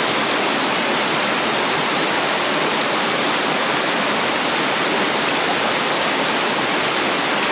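Mountain stream's water rushing steadily over a little waterfall, a constant loud splashing hiss.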